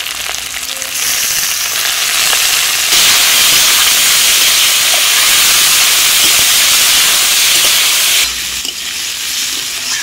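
Snail meat and diced potatoes sizzling in hot mustard oil in a steel kadai, stirred and scraped with a metal spatula. The sizzle grows louder about three seconds in and drops back near the end.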